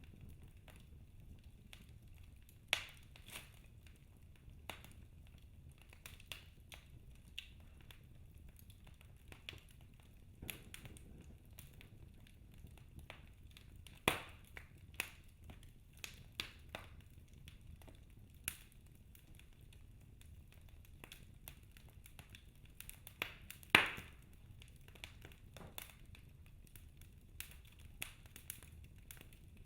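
Wood logs burning in a fireplace, crackling: scattered small snaps and pops over a faint low rumble. Louder pops come a few seconds in and about halfway, and the loudest about three quarters of the way through.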